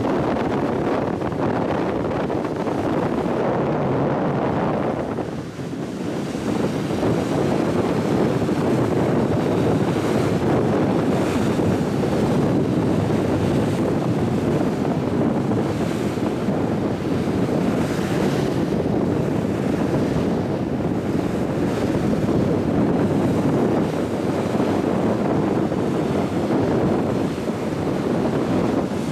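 Wind buffeting the microphone aboard a high-speed ferry under way, over the rush of the sea, steady apart from a brief lull about five seconds in.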